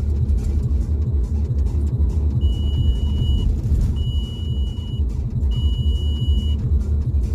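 A car's oil-pressure warning chime beeping three times, each a high steady tone of about a second, over the low rumble of the running engine. The oil warning is a sign the owner takes to point to a faulty oil pump.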